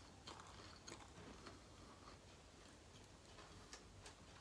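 Near silence: faint chewing of a breaded fish nugget with the mouth closed, a few soft clicks in the first second and a half, then almost nothing.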